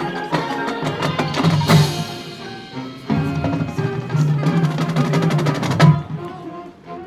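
Marching band playing: brass and winds holding low chords over rapid snare and bass drum strokes, with a loud crash about two seconds in. The full ensemble cuts off sharply about six seconds in, leaving softer held tones.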